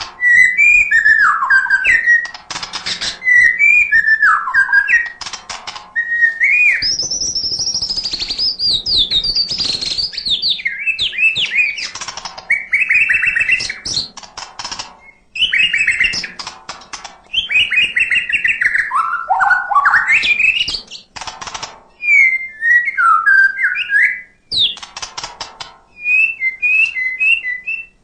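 White-rumped shama (murai batu) singing continuously: loud, varied whistled phrases gliding up and down, with runs of sharp clicks between them.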